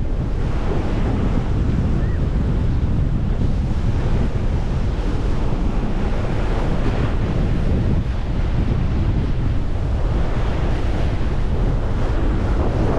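Steady wind buffeting the microphone on a moving cruise boat, with the rush of water beneath it.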